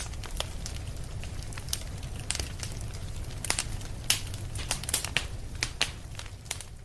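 Wood fire crackling, with irregular sharp pops and snaps, several of them louder past the middle, over a steady low rumble.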